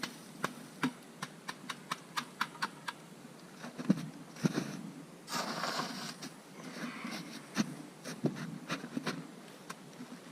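Campfire being put out: irregular sharp crackles and snaps, with two short hissing rushes a little past the middle.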